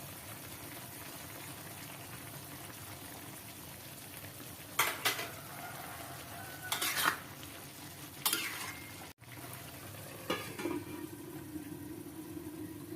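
Food frying in a pan with a steady sizzle, and a metal spatula clattering and scraping against the pan four times as it is stirred.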